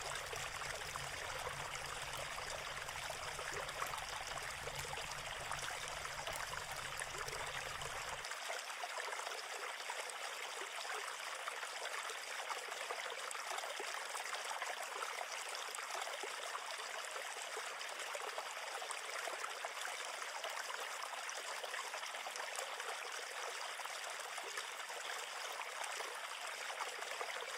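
River water flowing steadily, an even rushing hiss with no break. A low rumble underneath cuts off abruptly about eight seconds in.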